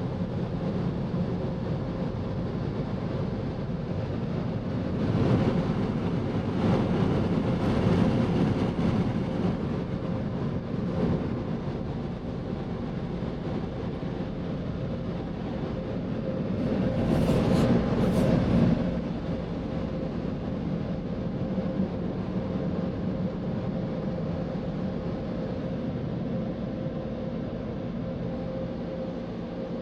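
Automatic touchless car wash machinery heard from inside the car's cabin: a steady mechanical hum with a constant tone, swelling twice into a louder rush of spray or air against the car, about five seconds in and again around two-thirds of the way through.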